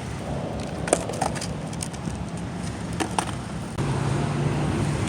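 Skateboard wheels rolling on pavement with a rumble, and several sharp clacks of the board: two about a second in and two more about three seconds in.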